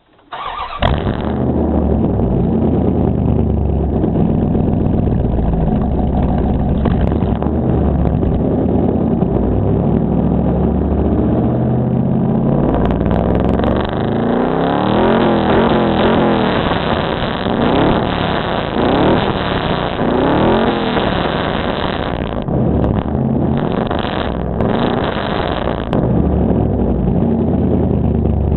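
Straight-piped 1994 Dodge Ram 1500's 5.2-litre (318) V8, with no catalytic converter or muffler, running loud. It starts up about a second in and idles with a deep, uneven exhaust note. Midway it is revved several times, the pitch rising and falling, and there are a few quick blips near the end before it drops back to idle.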